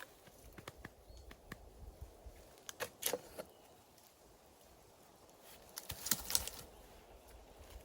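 Scattered dry crackling and rustling, in clusters about three seconds in and again around six seconds.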